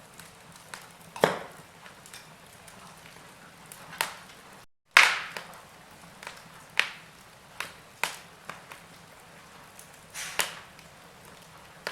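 Wood fire in a fireplace crackling: irregular sharp pops and snaps, about a dozen, over a faint steady hiss. The sound cuts out for a split second just before the loudest pop, about five seconds in.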